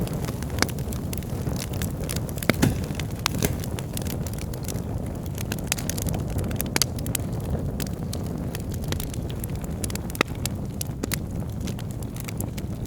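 Wood logs burning in a fireplace: a steady low rumble of flames with irregular sharp crackles and pops, one of the loudest about two and a half seconds in.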